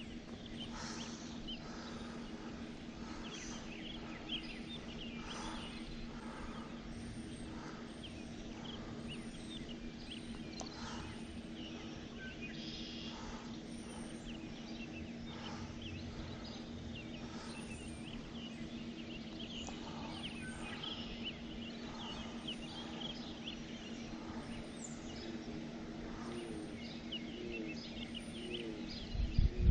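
Outdoor ambience: many birds chirping and calling over a steady low hum, with a bump just before the end.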